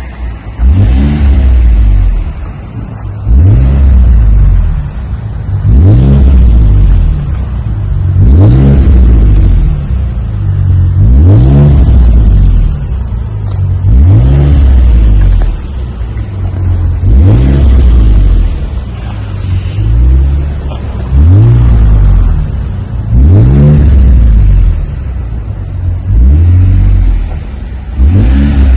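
2016 Ford Taurus SHO's 3.5-litre twin-turbo V6 revved again and again, about ten blips each two to three seconds apart, dropping back to idle between them. It runs through Magnaflow straight-through mufflers with a true X pipe and mid-muffler delete, giving a smooth, deep tone.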